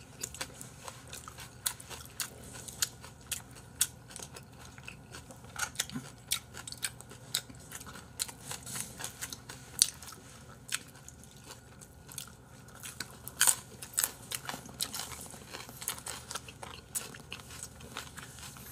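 Chewing and biting crunchy raw vegetables, such as green chili peppers, with irregular crisp crunches and mouth clicks, a few louder bites in the middle.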